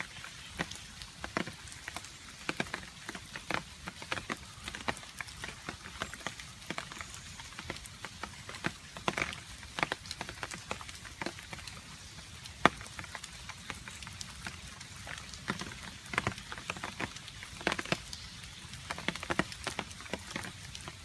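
Rain falling, with individual water drops dripping and tapping irregularly on a surface over a soft steady hiss; one drop lands noticeably louder about two-thirds of the way through.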